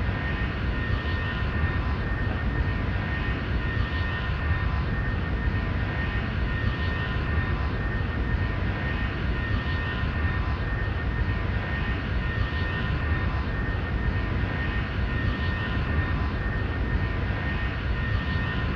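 Airbus A310 jet engines running steadily: a constant low rumble with a thin, steady whine over it.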